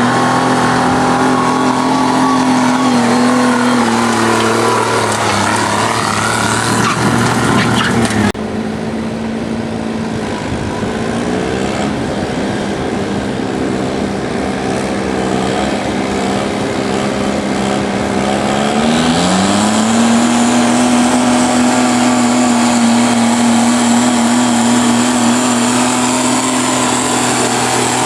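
Diesel garden tractor engine running hard under load in a tractor pull, its pitch sagging a few seconds in. The sound changes abruptly about eight seconds in to a steady engine note, which climbs in pitch a little past the middle and then holds.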